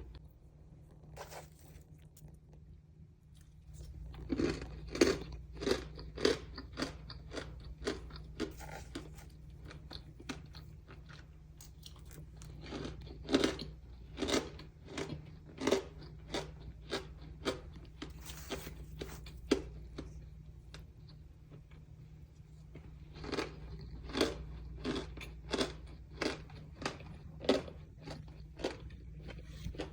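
Mini chunks of arrowroot starch being bitten and chewed: crisp crunches come in runs of about two a second, with quieter gaps between the runs. A steady low hum runs underneath.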